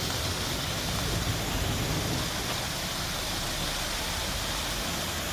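Waterfall's falling water, a steady even rush, with rain falling.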